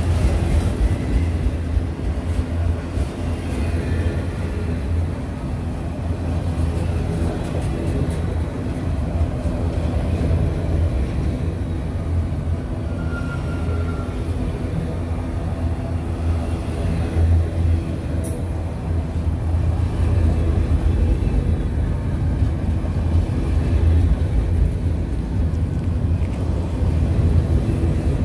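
A train running past with a steady low rumble.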